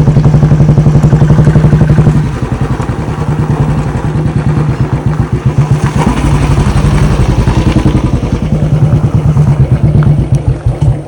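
Royal Enfield Bullet single-cylinder motorcycle engine running at low revs, with an even, rapid thumping beat. It drops in level about two seconds in and rises again later.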